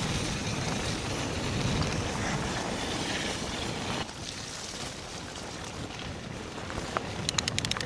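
Calibre Triple B mountain bike riding a muddy trail: steady tyre and wind noise that drops in level about four seconds in, then a quick run of sharp clicks near the end.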